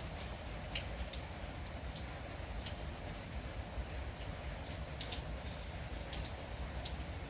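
Steady light rain falling, with individual drops ticking sharply on a surface every second or so over an even patter.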